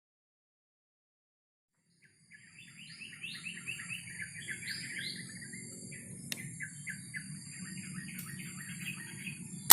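Wild bird chirping, starting about two seconds in: a rapid run of short sliding notes over a steady high-pitched insect drone. A sharp crack comes at the very end.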